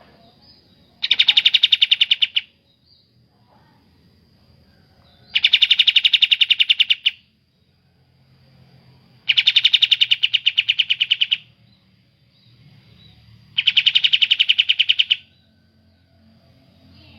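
A bulbul repeating a fast, even rattling trill four times, each trill about a second and a half to two seconds long and a few seconds apart.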